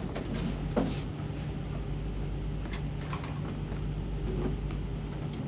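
Steady low hum of a warship's engines and machinery running at speed, with a faint brief knock or rustle about a second in.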